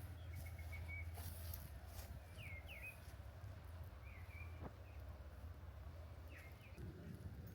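Wild songbirds calling in short phrases of chirps and quick up-and-down whistles every second or two, over a low steady background hum.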